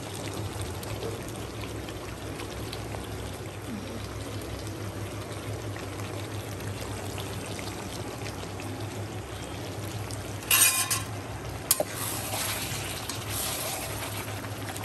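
Mutton and potatoes frying in spiced oil in a pot while being sautéed down for a red mutton curry, a steady low sizzle. About ten seconds in there is a sharp clatter, and from then on the sizzling grows louder.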